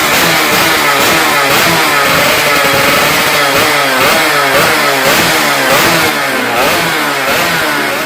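Two-stroke roadrace motorcycle engines revving, with several engines' pitches rising and falling over one another.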